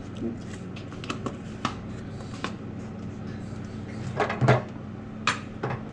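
Scattered clicks and knocks of kitchen items and utensils being handled, with a louder knock about four and a half seconds in, over a steady low hum.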